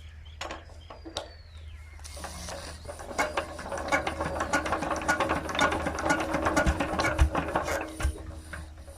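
Petter diesel engine clattering with fast mechanical clicking over a steady low hum; the clatter swells about two seconds in and eases off near the end.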